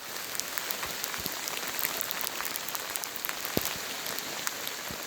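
Steady rain pattering on a surface: an even hiss full of scattered sharp ticks from individual drops.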